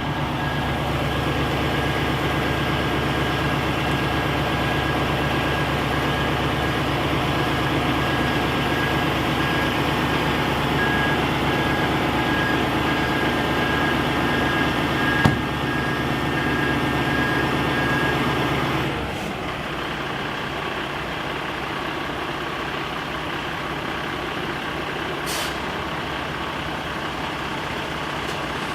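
Heavy truck's diesel engine running with a back-up alarm beeping steadily. A single sharp knock comes a little past halfway. About two-thirds of the way through, the beeping stops and the engine drops to a quieter idle.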